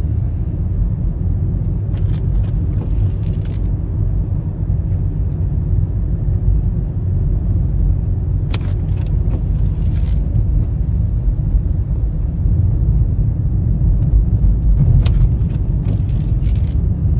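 Steady low rumble of a car's engine and tyres, heard from inside the cabin while driving on a snowy road, with a few brief clicks at intervals.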